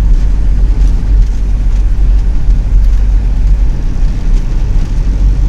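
CNG-fuelled mini truck on the move, its engine and road noise making a loud, steady low rumble.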